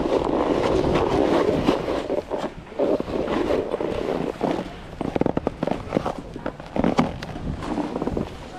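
Snowboard sliding over snow with wind buffeting the microphone: a steady scraping rush, then a run of sharp clattering knocks in the second half.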